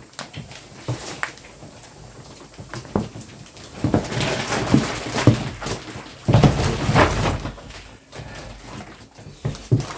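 Vacuum-packed memory-foam hybrid mattress expanding out of its plastic wrapping, making irregular crackling and creaking noises that get louder from about four seconds in.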